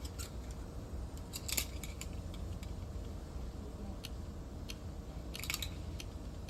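A few light clicks and short scraping sounds of small objects being handled, over a steady low rumble.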